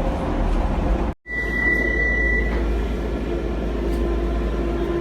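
Docklands Light Railway train running, a steady low rumble inside the carriage. About a second in the sound drops out briefly, then a single high-pitched electronic beep sounds for a little over a second.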